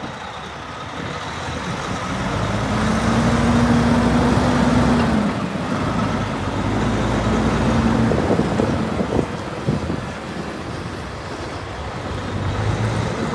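Heavy truck running along a road: engine drone and road noise swell to a peak a few seconds in, then ease off, with a steady low engine tone twice.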